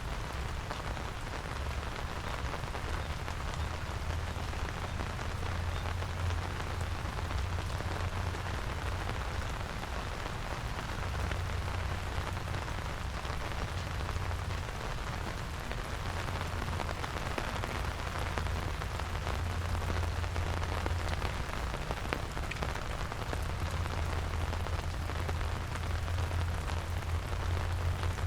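Steady rain falling and pattering on surfaces, with a low rumble underneath that swells and fades.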